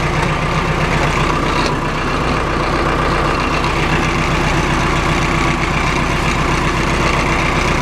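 Case 570 MXT loader tractor's 3.9-litre Cummins four-cylinder diesel running steadily at idle.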